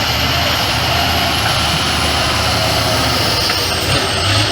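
Heavy truck's diesel engine running steadily under load, with a thin high whine slowly falling in pitch.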